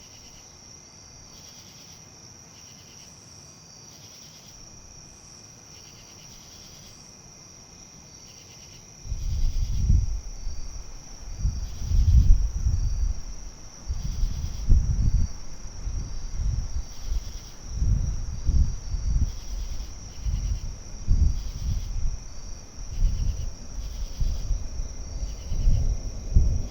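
A steady, pulsing high chorus of insects such as crickets throughout. About a third of the way in, gusts of wind start buffeting the microphone with loud, uneven low rumbles that come and go every second or two and drown out everything else.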